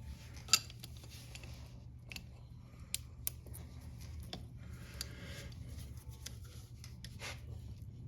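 Scattered sharp metallic clicks and taps as a chain press tool is worked on a motorcycle drive chain's connecting link, over a steady low hum.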